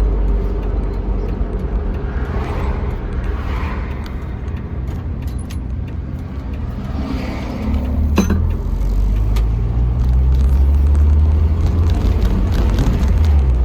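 1999 Jeep Wrangler TJ driving, its engine and road noise making a steady low drone that grows louder about eight seconds in, with one sharp click around then. No knocking from the repaired rear lower control arm.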